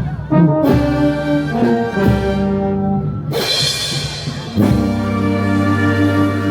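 A Peruvian brass band plays held chords on trumpets and trombones over a steady bass line, the chord changing every second or so. A bright crash sounds about halfway through.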